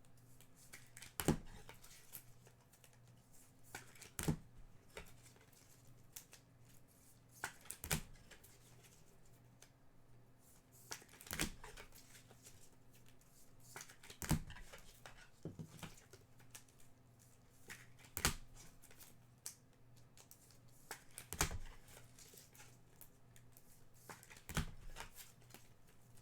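Trading card packs being opened and the cards handled: foil wrappers tearing and crinkling, cards sliding, and a sharp snap about every three to four seconds, over a faint steady hum.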